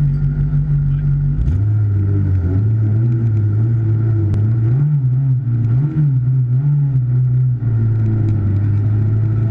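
A car's engine heard from inside the car, running with a low steady hum. About a second and a half in its note shifts abruptly. The pitch then rises and falls a little as the car moves off slowly, before settling back into a steady drone.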